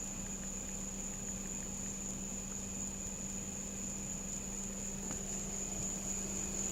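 Steady low hum with a constant high-pitched whine over a faint even hiss; nothing else stands out.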